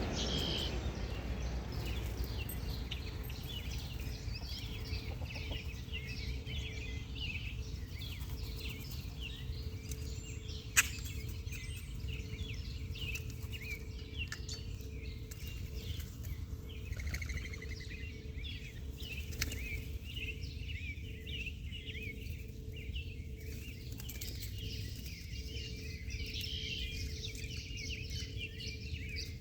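Many small birds chirping continuously in a dense chorus of short, high calls, over a steady low rumble. A single sharp click about eleven seconds in.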